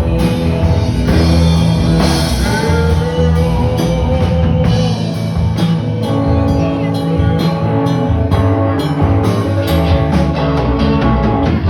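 Live rock band playing: a drum kit with electric guitar and bass, loud and steady, with no singing.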